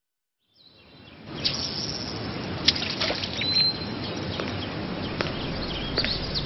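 Birds chirping over a steady rushing background noise, fading in from silence in the first second, with a brief high whistled note about halfway through.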